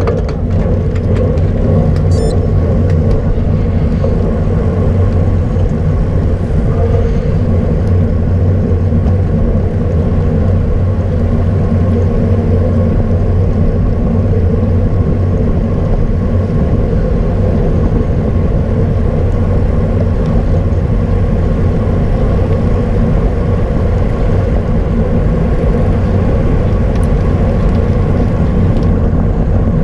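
Steady, loud wind and road rumble on a camera riding on a racing bicycle at speed, with no break or change.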